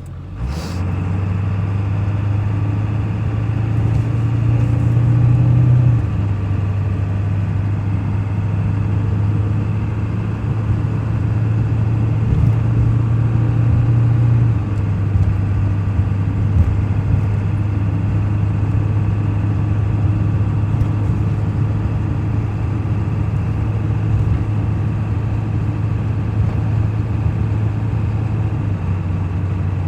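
Truck engine heard from inside the cab, pulling away from a complete stop. The engine note climbs, then drops about six seconds in and again about fourteen seconds in, and then runs steady.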